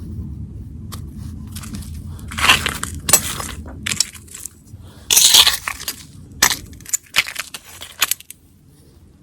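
Charred pomelo peel and campfire embers crunching and cracking as they are raked and broken open, in a series of sharp crunches, the longest about five seconds in.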